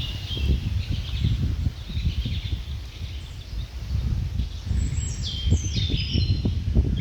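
Small birds chirping and calling in short high phrases, with a few quick falling whistles about five seconds in, over a steady uneven low rumbling noise.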